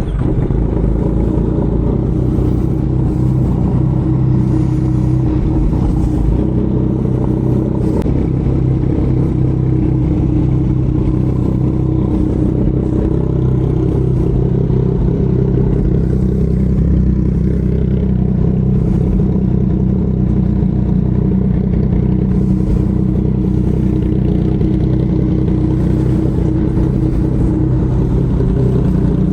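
Yamaha MT-09's inline-three engine idling steadily, at an even pitch and level.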